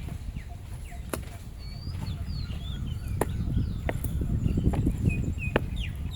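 Short bird chirps scattered through, over a low rumble that grows louder, with about six sharp clicks spaced roughly a second apart.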